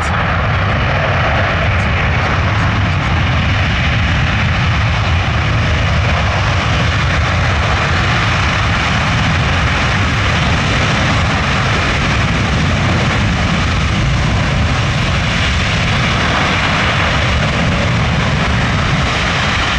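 Four turbofan jet engines of a C-17 Globemaster III running, a loud steady roar with deep rumble and broad hiss that holds even throughout.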